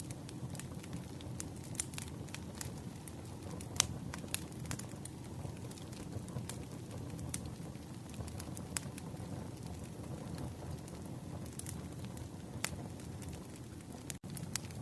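Campfire ASMR recording: a wood fire crackling, with irregular sharp pops over a steady low rumble. The sound cuts out for an instant near the end.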